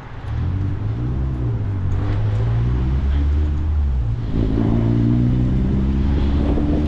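Motor vehicle engine running close by, a steady low hum that shifts in pitch about four seconds in.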